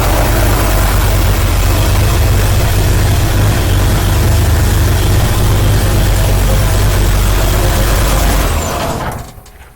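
Small-block 327 V8 with an Edelbrock four-barrel carburetor idling steadily, then stopping suddenly near the end.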